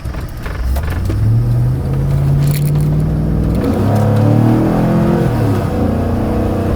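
A 2013 Chevrolet Avalanche's 5.3-litre V8 heard from inside the cab, accelerating hard: the revs climb, drop at an upshift about four seconds in, then climb again. Plenty of revs with little pull, typical of the lackluster acceleration the driver is testing the tune for.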